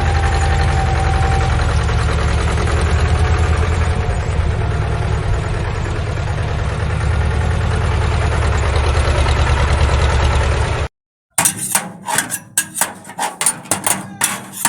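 An engine-like motor running steadily with a low rumble, which cuts off abruptly about eleven seconds in. Short irregular knocks and clatters follow.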